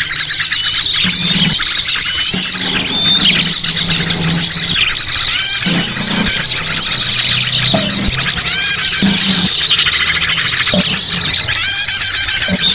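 Loud, dense chorus of many small birds chirping and whistling over one another with no pause. This is a bird-trapping lure call ('master pikat'), meant to draw wild birds in.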